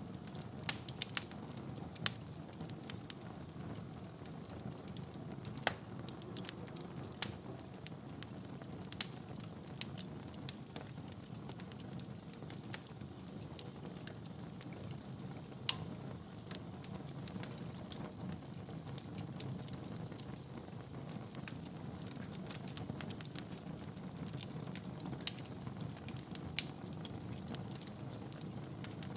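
Wood fire burning in a fireplace: a steady low rush of flame with scattered crackles and occasional sharper pops from the burning logs.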